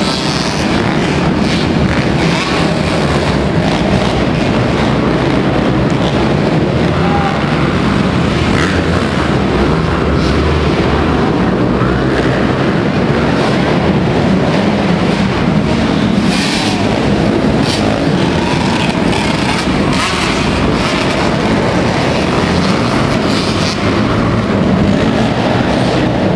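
Motocross motorcycle engine running steadily, mixed with wind noise on the microphone and a few knocks.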